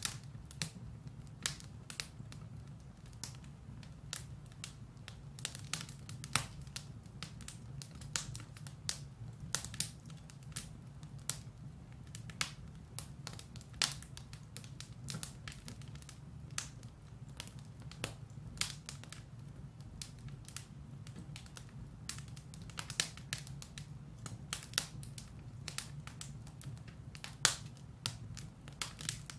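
Firewood burning in a fireplace, crackling with irregular sharp pops and snaps over a low steady rumble of the fire.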